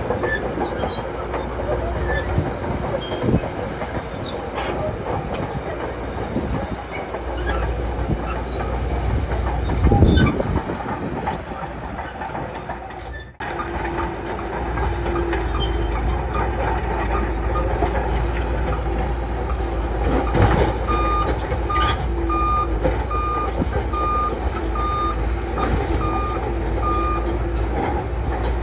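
Shantui bulldozer running under load, its diesel engine working while the steel tracks clank and squeal. The sound cuts out briefly about halfway through, and in the last third a reversing alarm beeps about twice a second.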